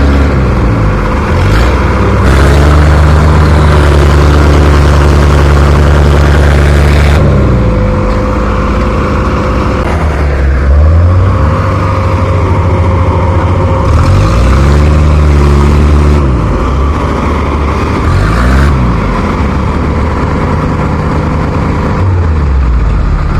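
Heavy machine engines running under load while a rice harvester stuck in mud is towed out, revving down and back up several times with the pitch falling and rising.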